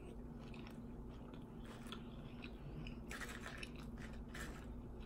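A person chewing a mouthful of hot sausage and bun, with faint wet mouth sounds. In the second half come a few short crisp crackles as fingers pick through crinkle-cut potato chips.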